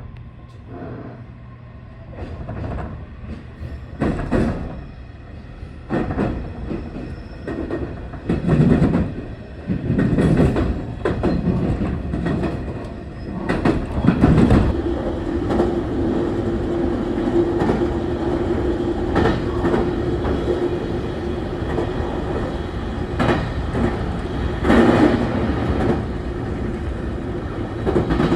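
A train running on rails, its wheels clacking over rail joints, growing louder over the first half. From about halfway a steady hum joins the clacking.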